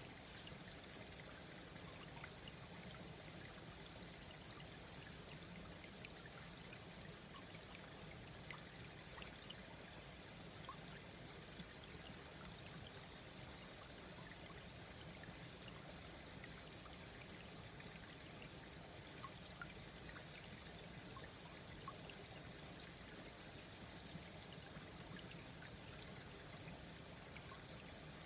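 Small, slow-flowing brook babbling steadily and faintly, with scattered small plinks of water.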